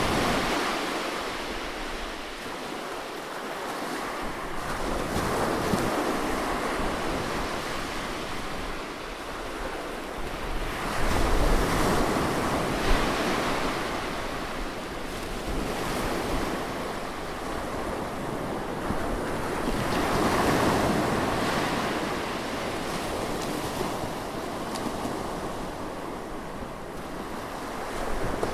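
Close-up ocean waves on a shore, the surf washing in and out in slow swells every several seconds.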